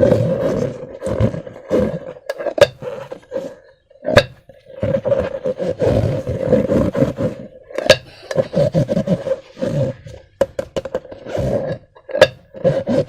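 Slime and rubber balloons being squeezed, stretched and worked by hand, making irregular squelching and rubbing sounds, with a few sharp snaps.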